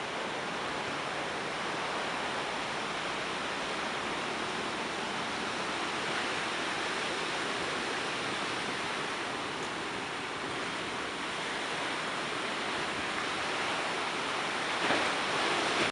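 Steady rushing noise of a rough, stormy sea's surf, with a brief louder surge near the end.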